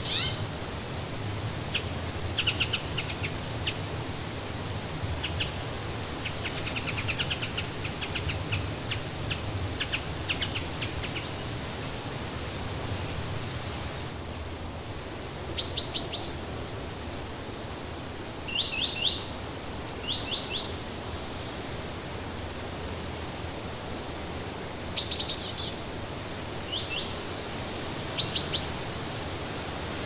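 Wild birds chirping and singing in short, quick trills, with a few louder phrases in the second half, over a steady rushing hiss.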